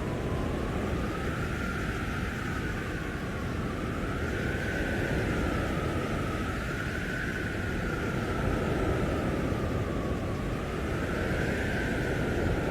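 Blizzard wind blowing hard: a steady rush of wind noise with a howling whistle that slowly rises and falls in pitch every few seconds.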